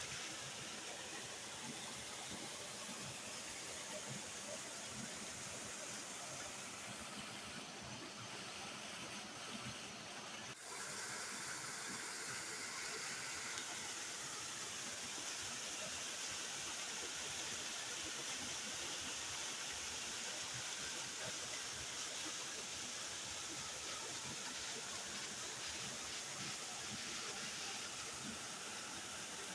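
Waterfall, water rushing and splashing in a steady, even roar. About ten seconds in, the sound dips for a moment and changes abruptly, as at a splice.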